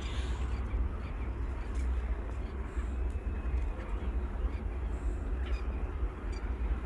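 Scattered short bird calls over a steady low rumble.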